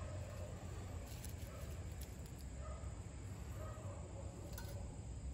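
Faint, short bird calls repeating irregularly every second or so over a low steady background rumble, with a few light clicks from charred punk wood pieces being handled.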